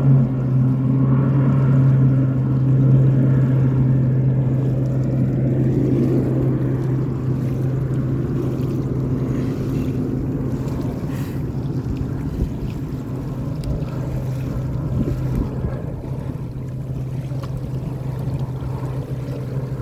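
Air Tractor 802F Fire Boss single-engine turboprop, a steady propeller drone that slowly fades over the stretch, with wind noise underneath.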